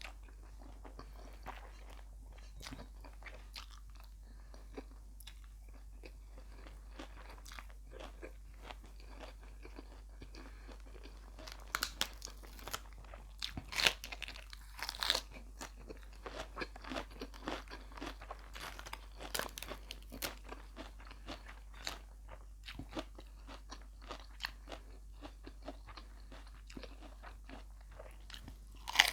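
Close-up chewing and crunching of a laab beef meal with rice: soft, sparse mouth clicks at first, then louder, crunchy bites and chewing from about twelve seconds in.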